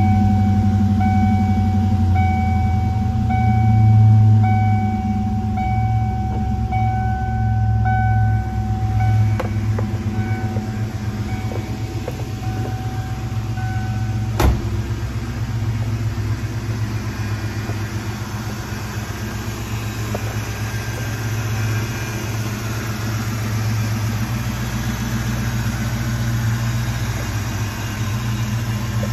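Ford Mustang Cobra R's V8 idling steadily just after a cold start. A repeating electronic warning chime beeps over it for about the first half, stopping with a sharp click about fourteen seconds in.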